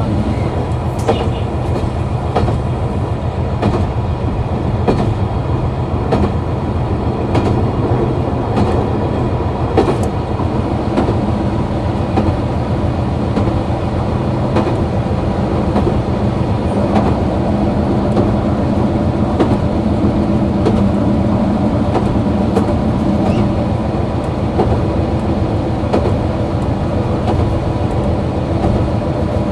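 KiHa 261 series diesel multiple unit running along the line, its diesel engine droning steadily, with wheels clicking over rail joints now and then.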